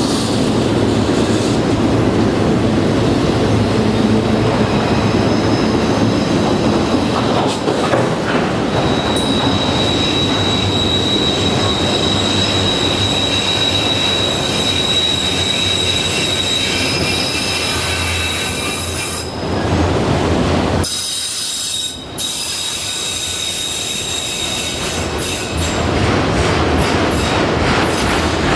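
Norfolk Southern freight train cars rolling past, with wheel flanges squealing in long, high steady tones over the rumble of the wheels on the rails.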